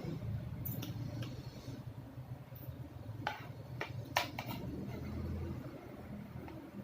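Someone eating during a mukbang: quiet chewing with a few sharp clicks, the loudest about four seconds in, over a low steady hum.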